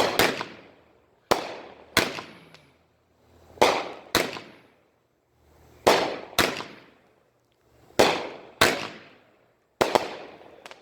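Consumer fireworks going off in a string of sharp bangs with echoing tails, mostly in pairs about half a second apart, a pair every couple of seconds.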